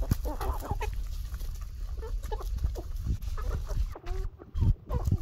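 Chickens clucking: a run of short, overlapping calls.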